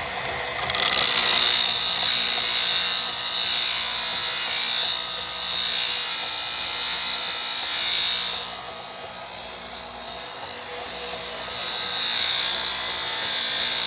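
Grinder sharpening a steel wood-turning tool, a high grinding noise that starts about a second in and swells and eases several times as the tool is pressed to the wheel.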